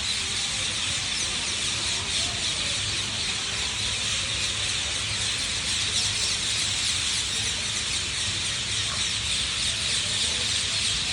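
A dense evening chorus of many birds roosting together in trees, an unbroken wall of overlapping chirps and squeals that is loudest high up. It is the noisy pre-roost gathering at dusk, which lasts until it gets dark.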